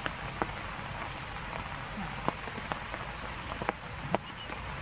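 Heavy rain falling steadily: a constant hiss of rain with scattered sharp drip hits close by.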